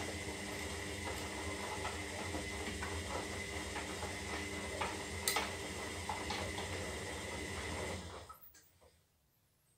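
Zanussi Lindo 300 washing machine turning its drum during a synthetic wash cycle: a steady motor hum with a thin high whine, light clicks and rattles from the load, then the motor stops about eight seconds in.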